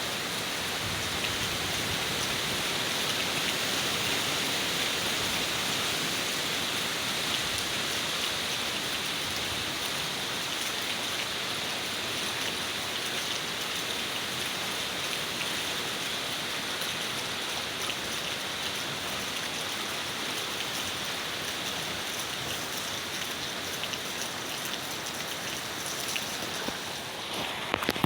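Steady rain falling, an even hiss of many small drops. Just before the end it dips briefly, and a few sharp taps stand out.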